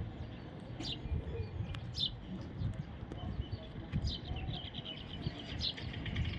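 Parrots calling: short high chirps and squawks about a second apart, with a quick run of chirps about four seconds in. A steady low rumble runs underneath.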